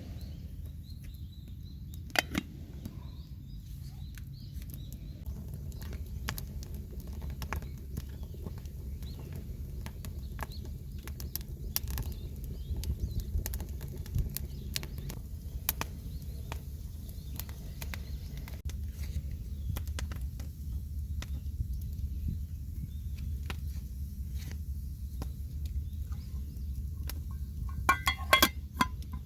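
Wood campfire crackling with scattered sharp pops over a steady low rumble, with a few louder clicks near the end.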